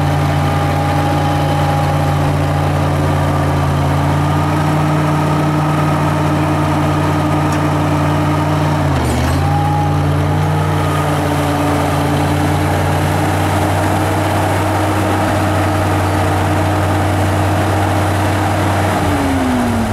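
Oliver 1850 tractor engine running steadily, with a brief dip in engine speed about nine seconds in and the pitch falling near the end as it slows.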